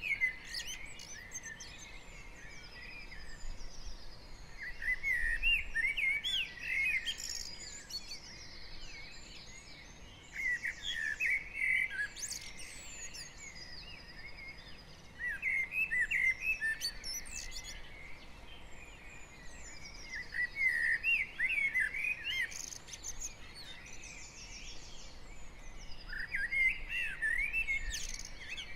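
Garden birds in a spring dawn chorus. One bird sings a short phrase of quick, varied notes about every five seconds, over layered trills and chirps from other birds, with a faint low hum of distant traffic.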